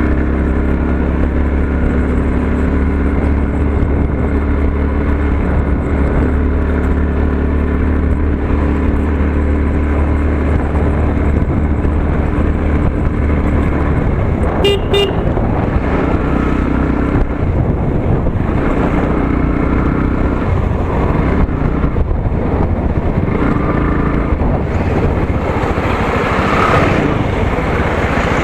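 Motorcycle engine running steadily on the move, its note shifting about halfway through. A vehicle horn gives two quick short beeps around the middle.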